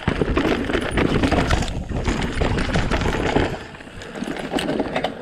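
E-bike ridden over a rough forest trail: tyres and frame rattling over bumps in a dense clatter, easing off about four seconds in.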